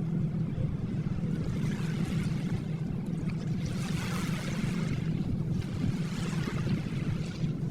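Gentle ocean waves washing in and out, a hiss of surf that swells and fades, with one wash peaking about four seconds in, over a steady low rumble.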